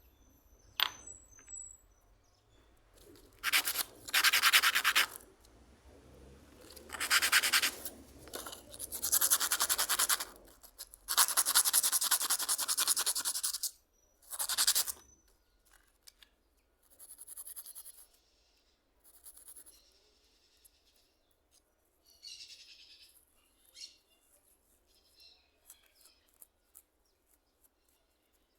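A series of rasping, abrasive strokes, five loud bursts of one to two and a half seconds each in the first half, then fainter short scrapes and clicks.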